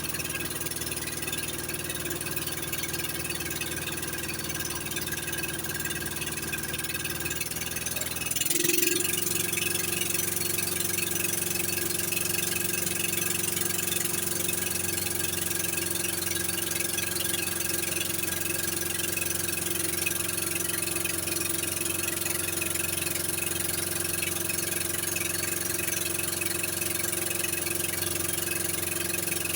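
An engine running steadily with a constant hum; about eight seconds in its note changes and it gets a little louder, then it runs on evenly.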